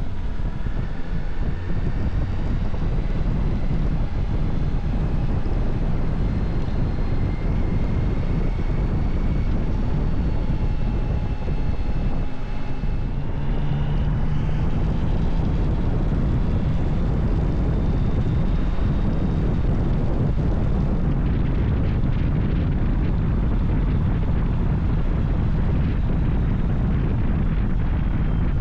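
Motorcycle engine running at road speed under steady wind rush, its note rising and falling with the throttle through the turns; a brief dip and change in the engine note about twelve seconds in.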